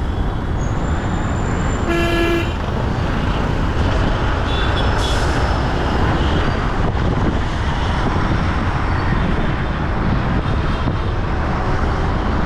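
Steady, loud city traffic and road noise, with a vehicle horn honking once briefly about two seconds in and a fainter, higher toot around five seconds.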